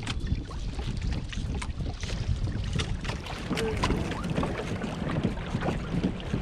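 Wind on the microphone and water lapping against a kayak, a steady low rumble, with scattered small clicks and splashes.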